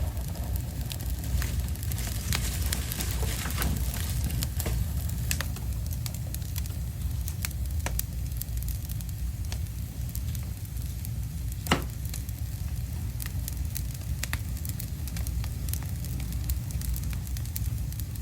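Fire burning in a fireplace: irregular crackles and pops over a steady low rumble, with one louder pop near the middle.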